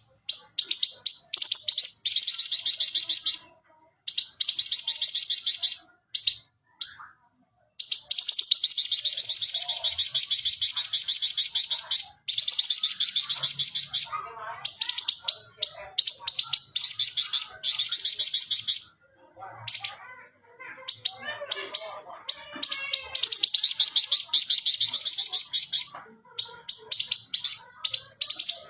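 A flamboyan songbird singing non-stop in long bouts of rapid, high, evenly repeated trilled notes, broken by short pauses.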